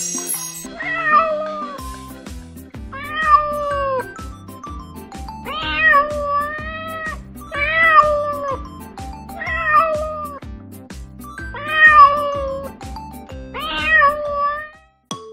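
A domestic cat meowing seven times, about every two seconds, each meow a drawn-out call, over background music with a steady beat.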